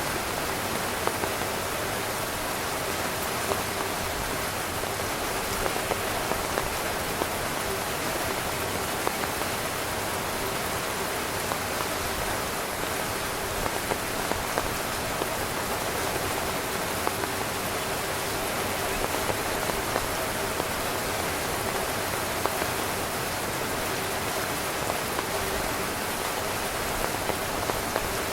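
Steady heavy rain falling on a tent, an even rushing hiss with many single drops striking the fabric as small sharp taps throughout.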